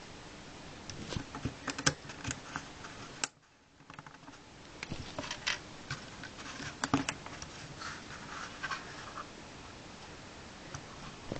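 Small plastic LEGO pieces being handled and snapped together: irregular light clicks and scratching. The sound drops out briefly a few seconds in.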